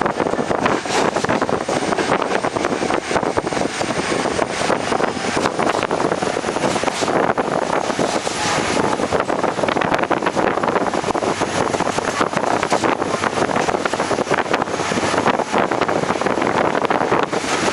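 Passenger train with ICF coaches running at speed, heard from on board: a steady loud rush of wind with the rattle and clatter of wheels and coach bodywork.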